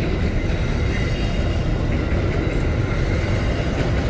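An Aurizon freight train's container well wagons rolling past, a steady rumble of wheels on rail with faint high-pitched tones above it.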